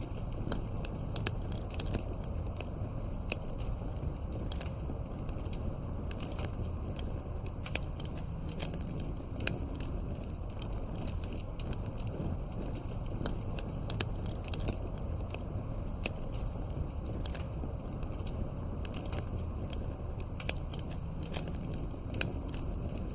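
Campfire burning steadily, wood crackling with frequent irregular sharp pops and snaps over a low, even rumble of the flames.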